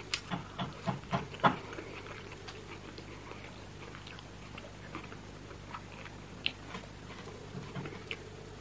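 Close-miked wet chewing and lip smacking on soft roast chicken and onion. A quick run of sharp smacks comes in the first second and a half, then sparser single clicks, over a faint steady hum.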